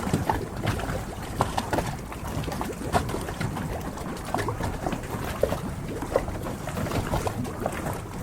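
Harbor water lapping against boats, a steady wash broken by many small, irregular splashes and slaps.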